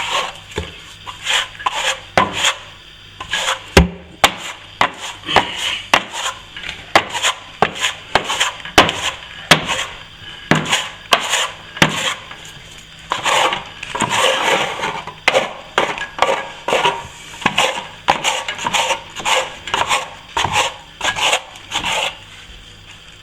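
A scraper blade scraping down dried plaster filler on a ceiling-wall joint in repeated short strokes, about one or two a second. This knocks back the previous coat before the next one goes on.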